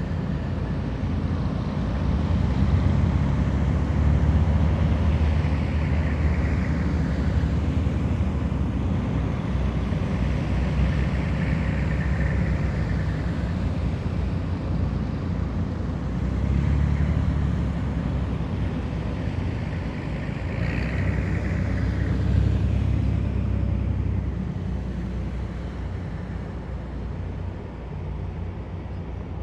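Heavy military vehicles driving past in a column, their engines making a deep rumble that swells and fades as each one goes by, several in turn, easing off near the end.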